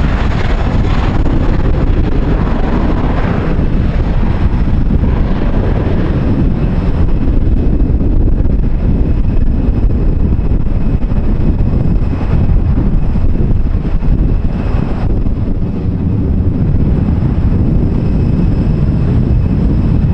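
Jet airliner engines running loud and steady: a deep rumble with a faint high whine, mixed with wind buffeting the microphone.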